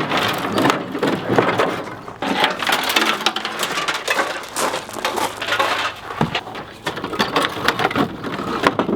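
Rusted, brittle car body parts crunching and cracking as they are pried and broken loose: a dense run of irregular cracks and snaps with short pauses.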